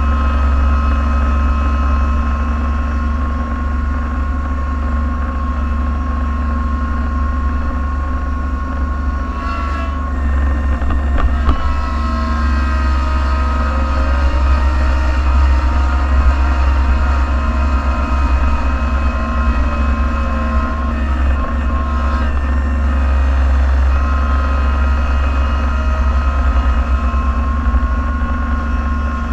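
Plow truck's engine running, heard from inside the cab as a steady low hum with a whine on top. The pitch shifts and wavers through the middle as the truck works, with a few short knocks about ten, eleven and twenty-two seconds in.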